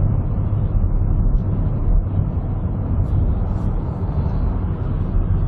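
Car engine and road noise heard from inside the moving car: a steady, loud low rumble.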